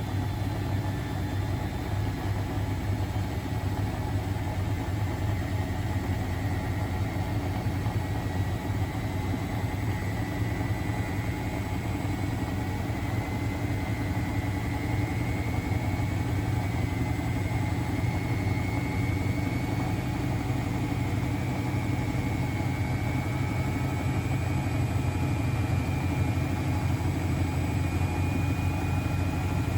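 Miele Novotronic W921 washing machine running with a steady low hum, and a thin high motor whine that slowly rises in pitch.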